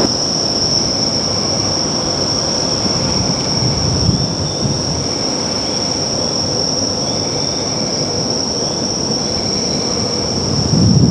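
Keio Line electric train running, a steady rumble under a continuous high-pitched whine.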